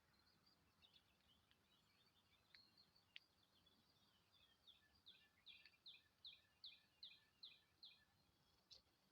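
Faint songbird calling: scattered high chirps, then a run of about eight quick notes, each sliding downward in pitch, a little over two a second.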